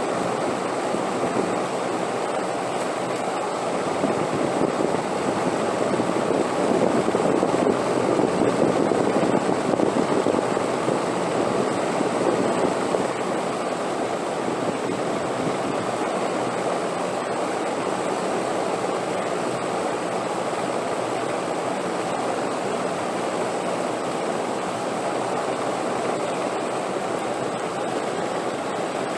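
Wind blowing steadily with a deep rushing sound, swelling into a stronger gust about four seconds in and easing back after about thirteen seconds.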